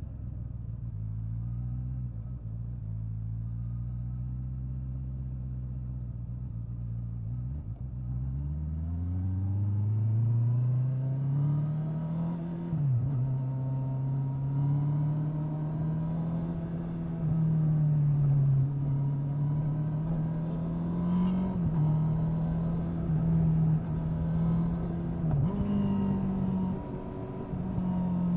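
Honda 650 inline-four motorcycle engine under way, first running steadily at low revs, then rising smoothly about a third of the way in and holding higher revs, with brief dips and pick-ups twice.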